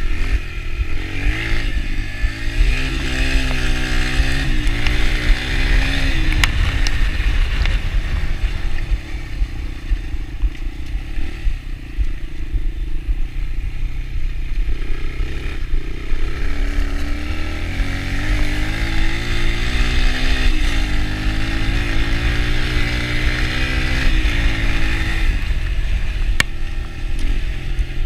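Yamaha TT-R125 dirt bike's small single-cylinder four-stroke engine being ridden. The engine note rises and falls as the throttle is worked: it revs up around the first few seconds, eases off through the middle, then climbs and drops again later, over a constant low rumble.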